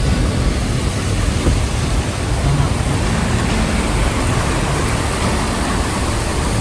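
Car driving on a road, a steady rumble of road noise with an even hiss over it.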